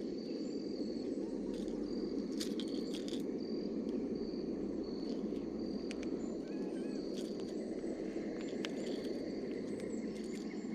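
Outdoor creekside ambience: a steady low rush with a short, high-pitched chirp repeating through it, a few sharp clicks and some faint warbling chirps.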